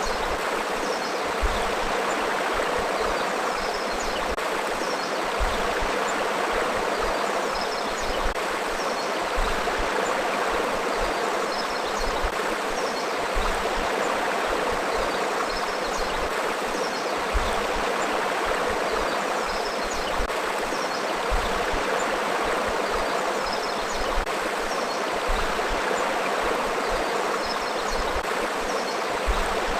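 A forest river flowing: a steady rush of moving water, with faint high chirps scattered throughout.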